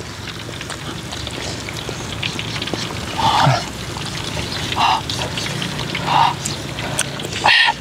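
Steady crackling sizzle of food frying in a pan on a stove, with four short voice sounds from the eaters spread through the second half.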